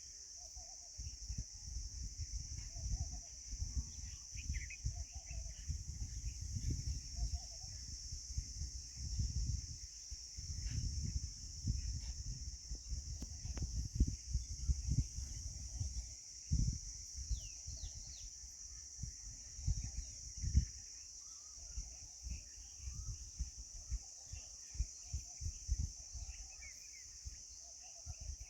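A steady high-pitched drone of insects such as crickets, with a few faint bird chirps and frequent low rumbling bumps.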